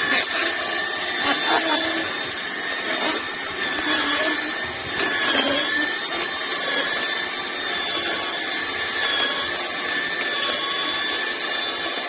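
Electric slow juicer running: a steady motor whine whose pitch sags slightly now and then under load, with scattered cracks and knocks as produce is crushed.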